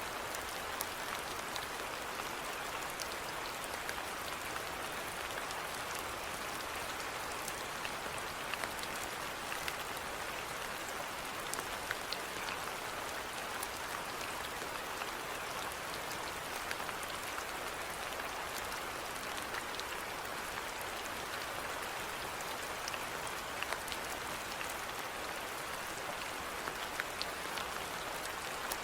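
Steady rainfall, a continuous hiss with scattered individual drops ticking.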